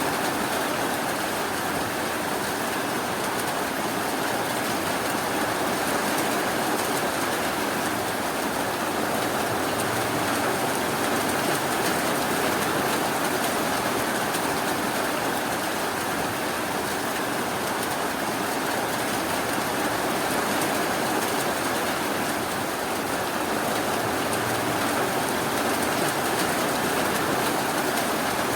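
Steady rainfall, an even hiss of rain with no distinct drops or thunder standing out.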